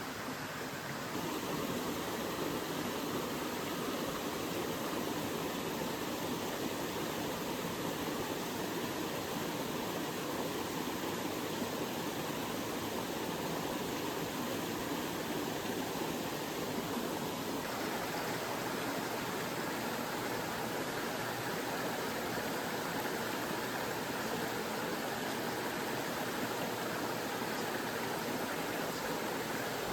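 Mountain stream running steadily: an even rush of flowing water, rising a little in level about a second in.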